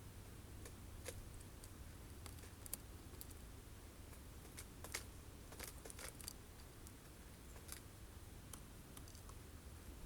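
Faint, irregular sharp clicks and taps, the sound of birds pecking at sunflower seeds on a feeder, over a steady low rumble.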